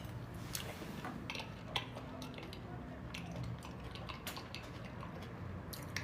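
Cutlery clinking and scraping against a dish now and then while eating curry and rice, a few brief scattered clicks.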